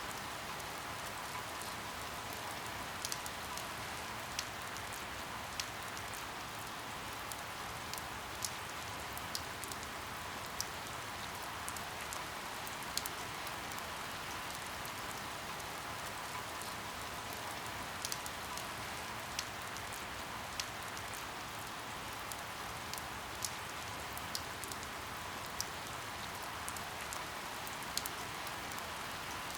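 Steady rain falling, a continuous hiss with individual drops ticking sharply every second or so.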